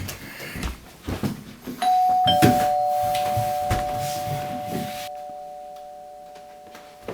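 Two-note chime doorbell ringing 'ding-dong', a higher note then a lower one, both ringing on and slowly fading. Before it come a few knocks and clatters.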